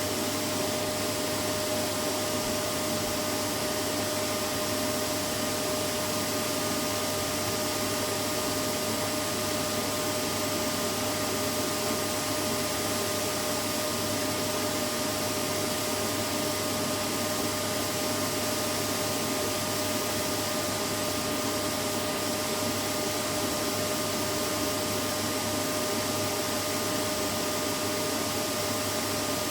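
Vacuum cleaner running steadily: an unchanging rushing noise with a steady mid-pitched whine.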